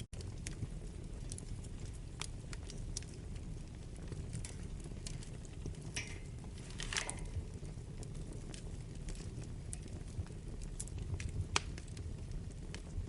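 Wood fire burning: a steady low rumble with scattered sharp crackles and pops. About six to seven seconds in, a brief hiss falls in pitch, and a louder single pop comes near the end.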